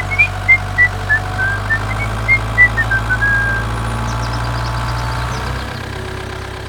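Small engine running steadily at idle, its low hum fading away near the end. A string of short high chirps, about three a second, sounds over it during the first half.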